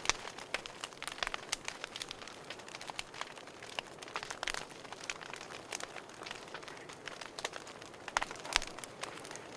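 Wood fire crackling in a fireplace: irregular sharp pops and snaps over a soft hiss, with a louder pop a little before the end.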